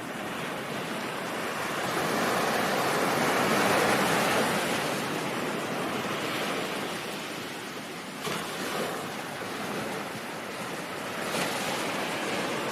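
Ocean waves breaking and washing up on a shore. One wave swells to a peak about four seconds in and recedes, and a smaller surge comes near the end.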